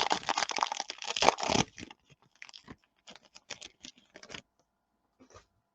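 A trading-card pack wrapper being torn open and crinkled for about a second and a half, followed by scattered light crinkles and clicks that stop a little over four seconds in.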